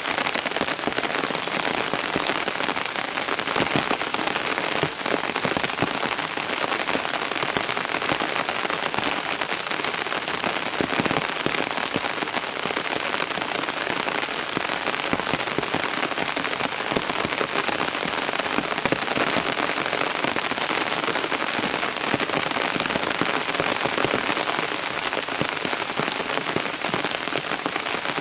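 Steady rain falling and pattering on surfaces, a dense even hiss of many small drops with individual drop ticks.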